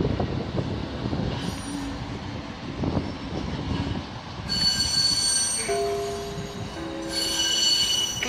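Red DB Regio multiple-unit train running through the station with a low rumble; about halfway in, its wheels start squealing in high, steady tones, with a few lower tones mixed in.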